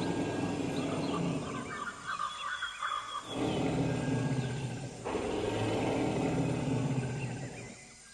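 Low, drawn-out animal calls in two long stretches, the first breaking off about three seconds in and the second ending near the end. Birds chirp in the background between them.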